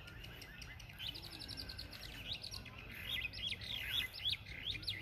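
Wild birds chirping and calling. A quick even run of notes comes about a second in, then louder sweeping up-and-down calls fill the second half.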